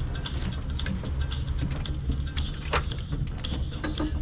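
A vehicle running at a steady low drone, with scattered light clicks and rattles.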